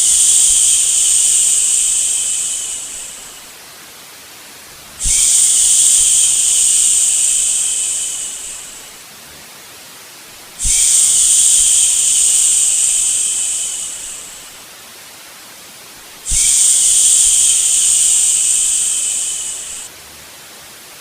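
Long 'shhh' shushing sounds repeated about every five and a half seconds, four in all, each starting abruptly and fading away over a few seconds, over a quieter steady white-noise hiss: a shush-and-white-noise track for settling a baby to sleep.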